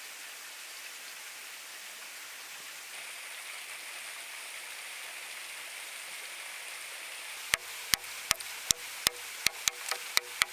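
A steady rushing hiss, like running water. About seven and a half seconds in, a quick run of sharp knocks starts, two to three a second, much louder than the hiss.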